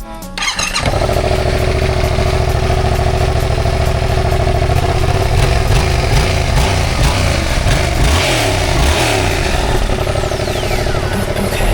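Yamaha MT-07 motorcycle's 689 cc parallel-twin engine running steadily, then revved up and down repeatedly from about five seconds in.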